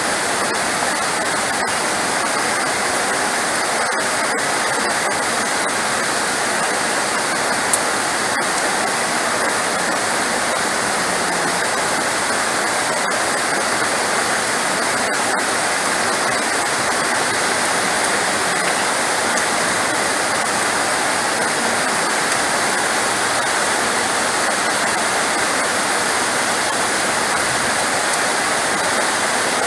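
Steady heavy rain, a dense even hiss that holds at one level throughout, with no thunder.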